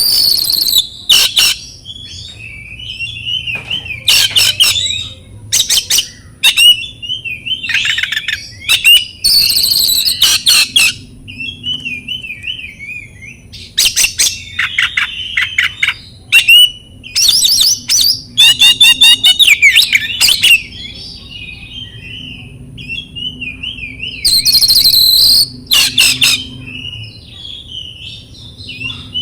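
Oriental magpie-robin singing loudly: bursts of varied whistles and harsh, scratchy notes, with softer wavering warbles in the short gaps between them.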